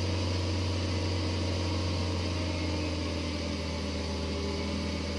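Excavator diesel engine running steadily at an even idle, a constant low hum.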